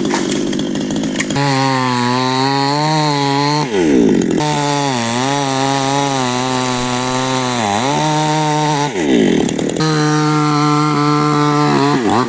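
Two-stroke chainsaw running at high revs while cutting neem wood; its steady engine note is broken by a few rough stretches and dips briefly about three-quarters of the way through as the saw loads up in the cut.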